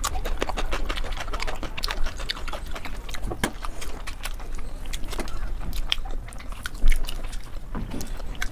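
Close-miked chewing and eating, many small irregular wet clicks and smacks, with a louder one about seven seconds in.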